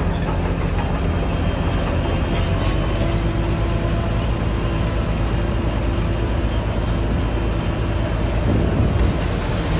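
Heavy diesel earthmoving machinery running steadily, a continuous low engine drone.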